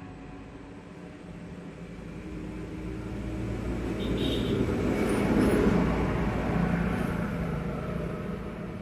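A motor vehicle passing close by: engine and road noise swell to a peak about five and a half seconds in, then fade.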